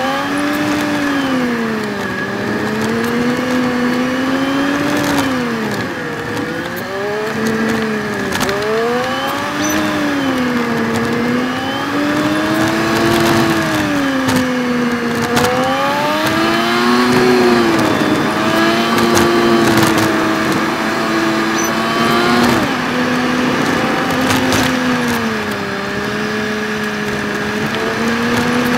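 Suzuki Jimny JB23's small three-cylinder engine heard from inside the cab, played back sped up about 3.7 times, so its pitch is raised and swings up and down every couple of seconds as the throttle opens and closes. A steady high whine runs underneath.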